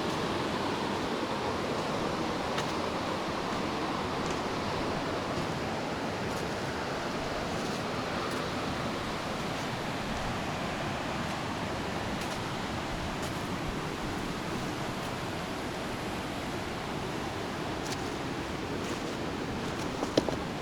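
Fast mountain river rushing steadily over its stony bed, an even roar of churning water. A brief knock near the end.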